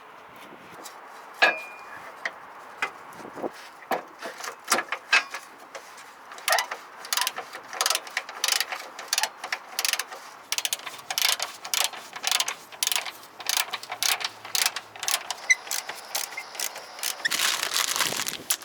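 Rapid clicking of a ratchet wrench with metal clinks, as nuts are run onto a car's front sway bar links, sparse at first and then fast and steady.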